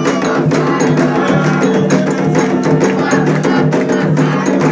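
Candomblé ritual music: atabaque drums playing a fast, dense rhythm with a bell or clave-like clicking, over sustained sung voices.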